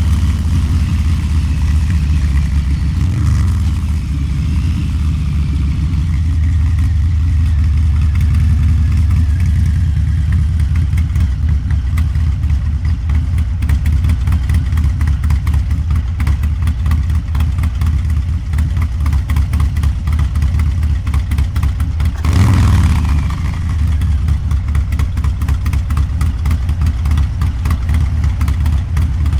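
Harley-Davidson Low Rider's 129-cubic-inch V-twin, with a Cycle-Rama CR485 cam and Two Brothers Racing exhaust, running at low, steady revs. There is a brief rev about three-quarters of the way through.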